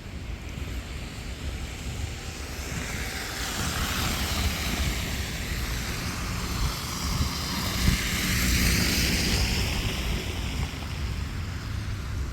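A vehicle passing on a wet, slushy road: a tyre hiss that swells, peaks about two-thirds of the way through and fades. Wind rumbles on the microphone underneath.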